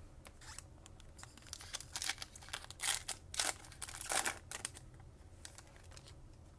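Trading cards and their packaging being handled: a run of crinkling, rustling and sharp little clicks, busiest in the middle.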